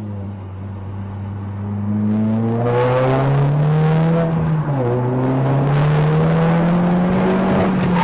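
Car engine accelerating: its pitch climbs, drops once a little before halfway through as it shifts up a gear, then climbs again.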